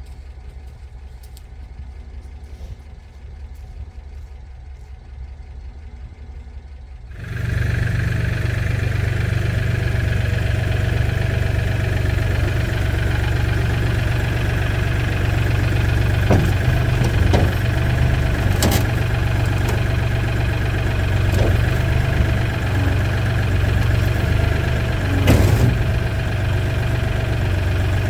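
An engine running steadily at idle, coming in abruptly and much louder about seven seconds in after a quieter low rumble, with a few short knocks later on.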